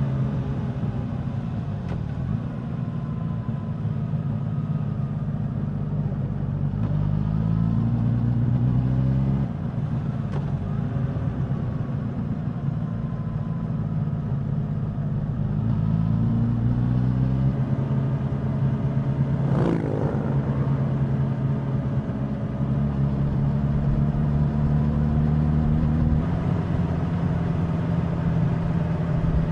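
Suzuki GSX-S1000's inline-four engine and exhaust while riding. The pitch rises as the bike accelerates, drops at a gear change about nine seconds in, climbs again around fifteen seconds and then holds steady. A brief sharp click comes about two-thirds of the way through.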